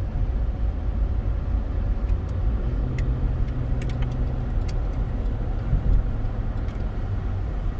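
Steady engine drone and road rumble inside a car's cabin while it drives at speed, with a few faint clicks in the middle.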